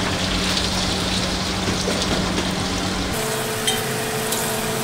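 Food frying in hot oil in a pan: a steady sizzling hiss with faint crackles, changing abruptly about three seconds in.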